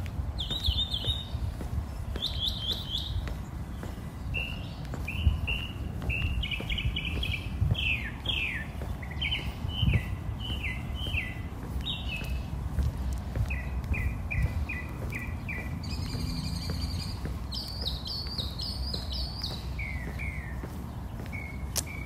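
A songbird singing a long string of short chirped phrases, each repeated several times before it switches to a new one, over a steady low background rumble.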